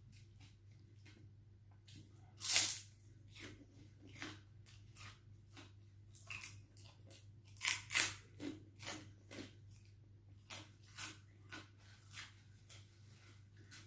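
Close-up eating sounds: irregular crunches and chewing, with the loudest bites about two and a half seconds in and around eight seconds in, over a low steady hum.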